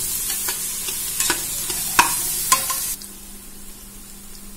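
Onions, green chillies and whole spices sizzling in hot oil in a pressure cooker while a spoon stirs them, with a few sharp clinks of the spoon against the pot; the onions are being fried until brown. The sizzle stops abruptly about three seconds in.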